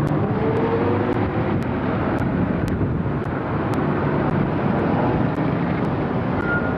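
Steady engine noise from a vehicle, running without a break.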